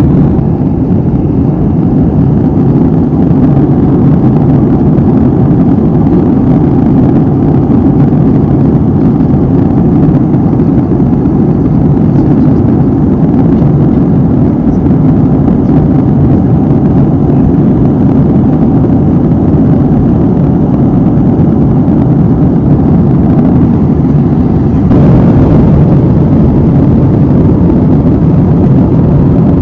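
Airliner cabin noise in flight: a steady, dense rush of engine and airflow noise, heaviest in the low range. About 25 seconds in, the hiss turns brighter and slightly louder and stays so.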